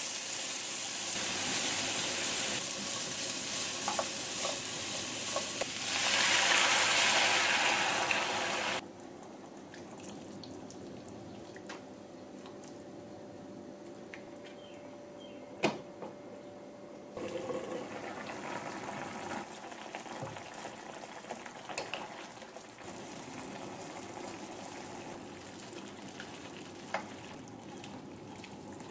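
Sliced burdock root sizzling as it is stir-fried in hot perilla oil in a frying pan, a loud steady hiss that swells for a couple of seconds before cutting off about nine seconds in. After that, quieter bubbling and stirring of the burdock in its braising sauce, with one sharp click midway.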